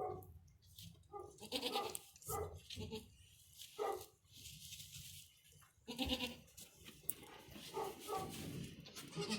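Goats bleating: a series of short calls repeated every second or so, from a doe and her newborn kids just after birth.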